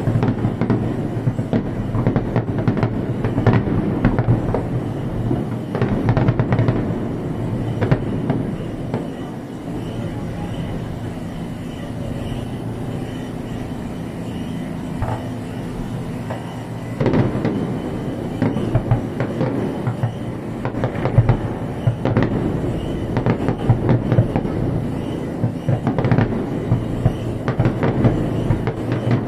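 Aerial fireworks bursting in quick succession, a steady rumble of booms broken by sharp cracks. The bursts ease off for several seconds in the middle, then come thick again.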